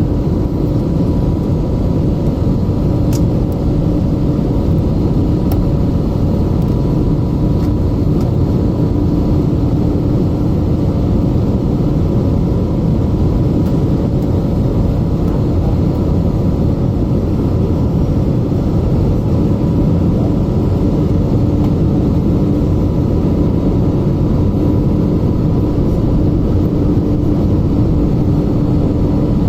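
Steady cabin drone of an Airbus A320neo in flight, heard from a passenger seat: jet engines and airflow making an even rumble with a faint steady whine over it.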